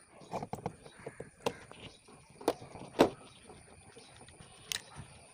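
Hand tools and metal chainsaw parts clicking and knocking together in separate sharp strikes, the loudest about three seconds in, during disassembly of a two-stroke chainsaw.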